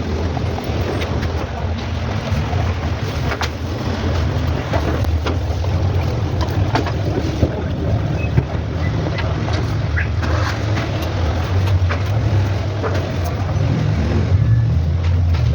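An engine running steadily with a low hum, with scattered light clicks and taps over it.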